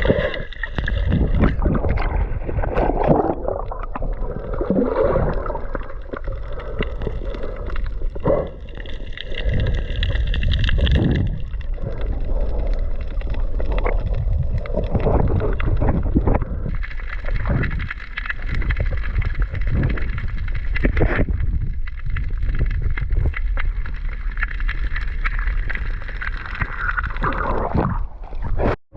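Speed boat under way: steady engine and rushing water, with wind buffeting the microphone in irregular surges. The sound cuts out briefly just before the end.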